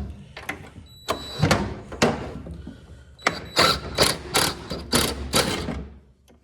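Ratchet wrench worked back and forth on a bolt of an old Lawn-Boy mower. A few scattered strokes come first, then a steady run of about six ratcheting strokes, two to three a second.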